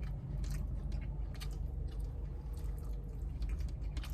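Close-up chewing and wet lip-smacking from someone eating saucy chicken wings: a few short wet clicks over a steady low rumble.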